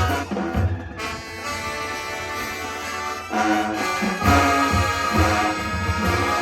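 High school marching band playing: the brass section holds full sustained chords over low drum hits, dropping softer about a second in and swelling back to full volume after about three seconds.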